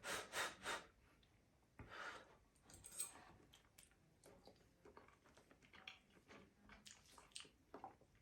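A person eating instant noodles: a few short noisy mouth sounds in the first second, two more around 2 and 3 seconds in, then faint chewing with small wet clicks.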